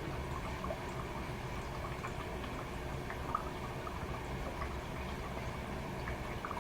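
Toshiba AW-42SEE4 fully automatic washing machine running, with a steady low hum under water sloshing and gurgling in the tub.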